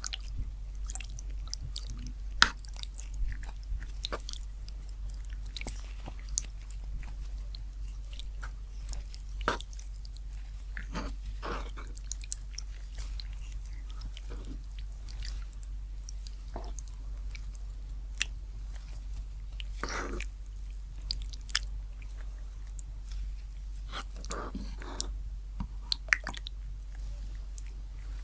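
Close-miked chewing and biting of food, with scattered short clicks and mouth noises, over a steady low hum.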